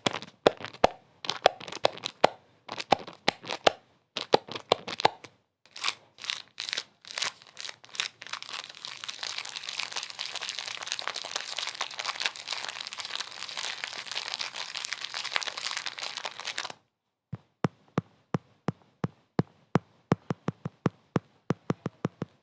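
Crinkling and crumpling of a thin, crackly material, first in short irregular bursts and then continuous for about eight seconds before stopping abruptly. A run of rapid, even taps follows, about four a second.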